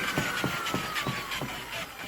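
Old corded Makita variable-speed drill turning the drum of a small hand-crank washing machine, its motor whine falling steadily in pitch as the speed is turned down. A regular knocking runs with it, about three knocks a second.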